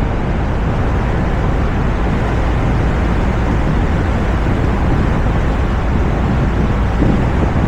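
Steady wind rush on a roof-mounted camera's microphone, with the low road and tyre noise of a Toyota RAV4 driving along.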